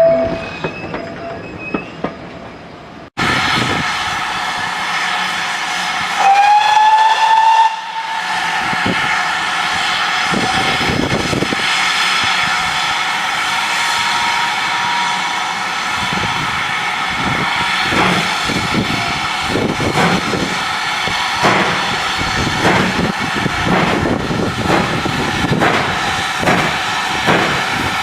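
Steam locomotive sounding its whistle in a short note that rises slightly in pitch, then puffing with a long run of exhaust beats over a steady steam hiss.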